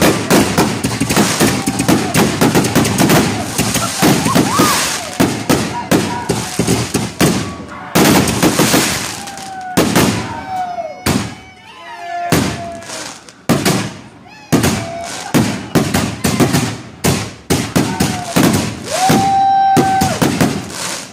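Consumer fireworks going off in rapid succession: a dense run of loud bangs and crackling reports that keeps going with only brief lulls.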